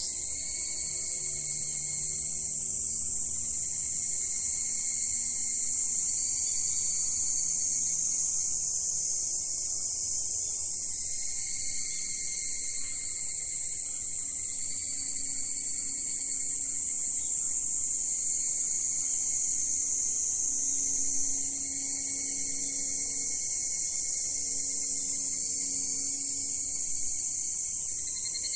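Insect chorus: a steady, high-pitched drone that holds level throughout, with no single call standing out.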